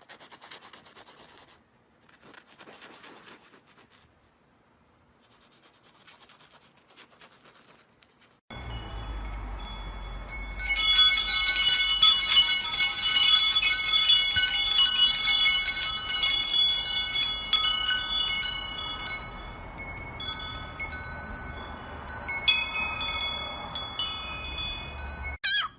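Metal chimes ringing: a cluster of overlapping high tones that jangle for several seconds, die away slowly, and are struck again near the end. The first few seconds hold only faint scratching.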